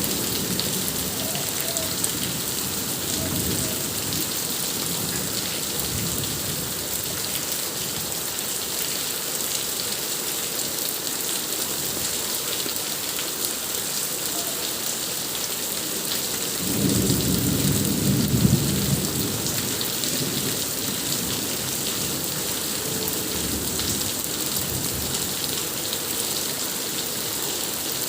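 Steady rain falling hard with a thunderstorm overhead: weaker rolls of thunder in the first few seconds, and the loudest roll rumbling for about two seconds roughly two-thirds of the way through.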